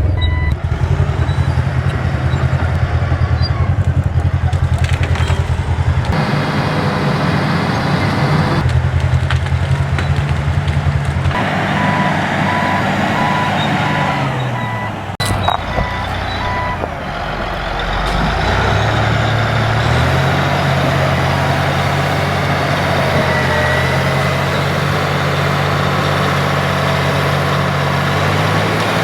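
Caterpillar D8 bulldozer's diesel engine running, with a backup alarm beeping in short pulses at the start and again about twelve seconds in. The engine note sags about fifteen seconds in, then climbs back up and holds steady.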